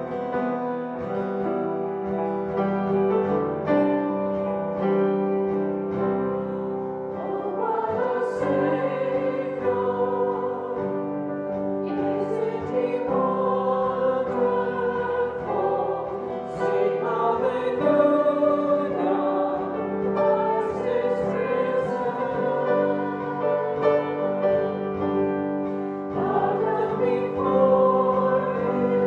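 Piano playing, joined about a quarter of the way in by voices singing with it.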